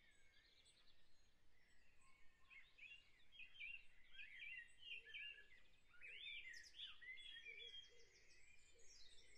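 Near silence, with faint birds chirping in the background: many short, quick chirps through most of the stretch.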